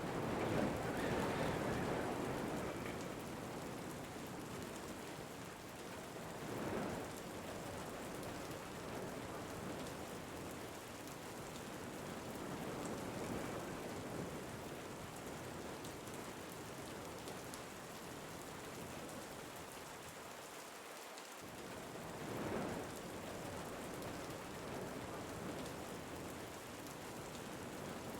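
Steady rain falling on a surface, a continuous hiss and patter that swells louder three times: at the start, about seven seconds in, and about twenty-two seconds in.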